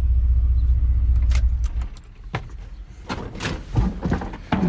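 Steady low rumble of a 1993 Chevy Cheyenne's 4.3-litre V6, muffler rusted off, heard from inside the cab. It stops after about a second and a half, and a few sharp clicks and knocks follow.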